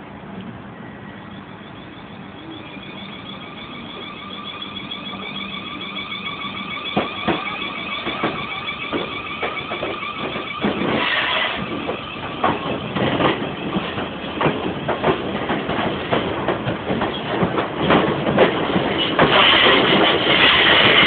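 Electric passenger train moving along the platform with a steady high electric whine. From about halfway its wheels start clacking over rail joints, the clacks coming thicker and the whole sound growing louder toward the end.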